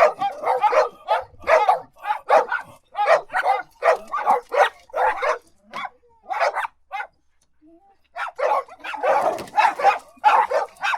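Dog barking again and again, about two barks a second, pausing for about a second before a quicker run of barks near the end.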